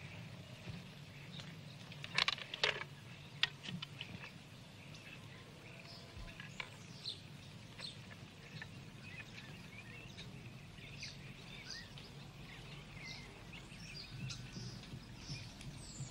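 Birds chirping over quiet outdoor ambience, with a few sharp clicks about two to three and a half seconds in.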